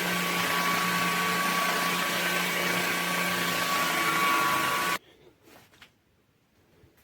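LEVOIT cordless stick vacuum running: a steady rushing noise with a thin high whine and a low hum. It stops abruptly about five seconds in, and a few faint light clicks follow.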